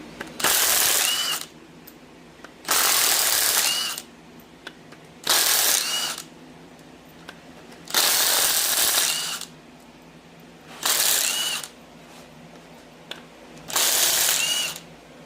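A 3/8-inch impact wrench running loosened cylinder head bolts out of a Chevy 350 small-block, six short bursts each a second or so long with a brief pitch drop as the trigger is let off.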